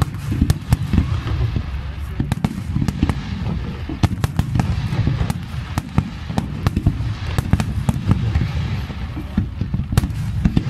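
Aerial fireworks display: a rapid, continuous barrage of deep booming shell bursts mixed with many sharp cracks, several a second.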